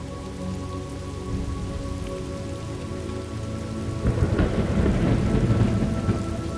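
Steady rain falling, with a rumble of thunder that swells up about four seconds in and dies away near the end.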